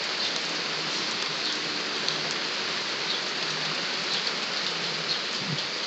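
Steady heavy rain falling, with scattered small ticks of drops striking nearby surfaces.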